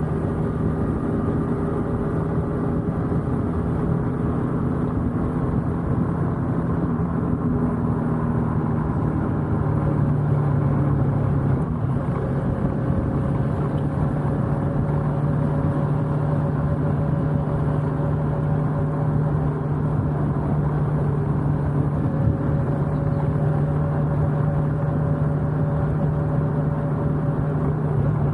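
Motorcycle engine running steadily at cruising speed, its note holding an even pitch and getting a little louder about ten seconds in. Wind rush is kept low by the action camera's wind noise reduction.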